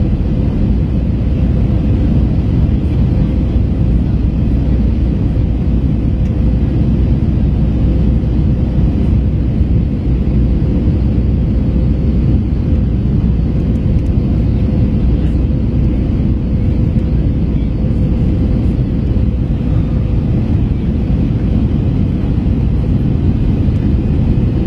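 Steady roar of engines and airflow inside an Airbus A321 cabin on approach, heaviest in the low end, with a steady hum riding on top.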